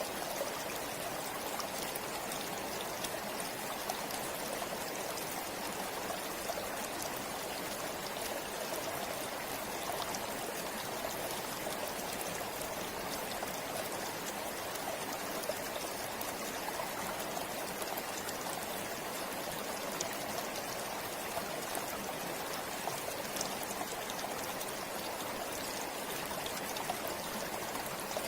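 River water flowing over stones, a steady rushing with fine splashes and trickles throughout.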